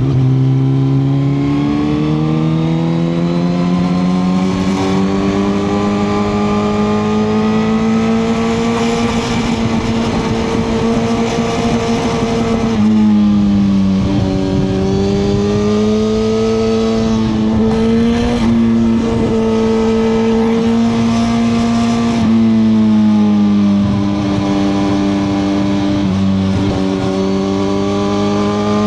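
2021 Suzuki GSX-R1000R's inline-four engine pulling under way, its note rising slowly through the rev range, with wind rushing past. About 13 s and 22 s in the engine note drops and surges briefly before settling and climbing again.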